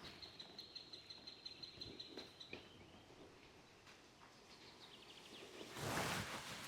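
An insect trilling, a steady high-pitched note that stops about two and a half seconds in, followed by faint scattered ticks and a short burst of noise near the end.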